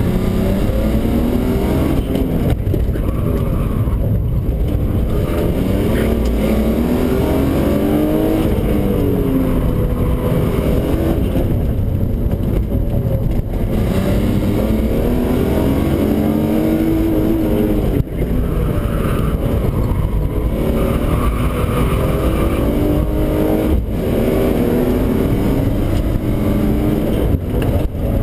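BMW E36 328's straight-six engine, heard from inside the cabin, driven hard on track: the revs climb and drop again and again as the car accelerates out of corners and slows into them.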